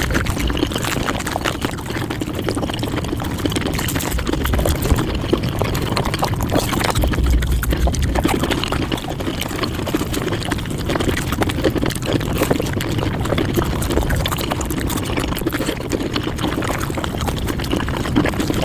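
Mukbang eating sounds sped up to five times normal speed: a dense, unbroken stream of rapid chewing and mouth clicks.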